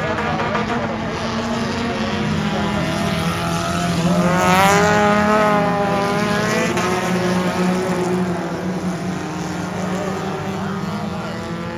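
Several race car engines running hard on a dirt oval. Their engine notes rise and fall as they go through the corners, and they are loudest about four to five seconds in, as cars pass close by.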